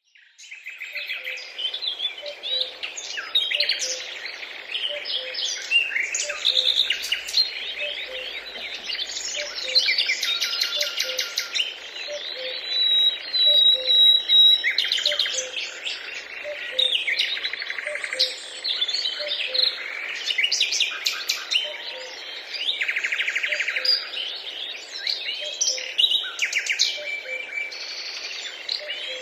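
Many birds chirping and singing at once: a dense, overlapping chorus of high chirps, trills and whistles, with a faint low note repeating regularly underneath.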